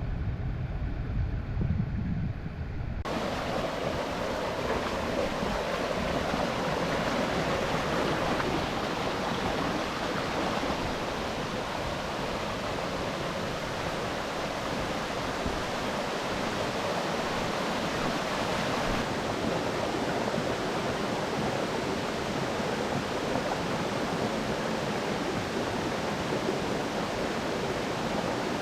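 A low, muffled rumble for about the first three seconds, then an abrupt change to the steady rushing of a mountain stream's water.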